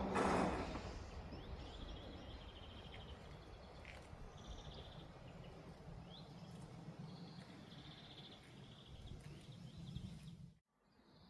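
A passing train fading away in the first second or two, leaving a low hum with birds chirping now and then. The sound cuts off abruptly near the end.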